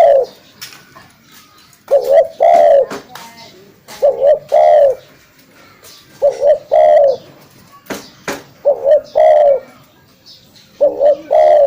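Spotted dove (tekukur) cooing: its low call phrase of two or three notes repeated about every two seconds, five times.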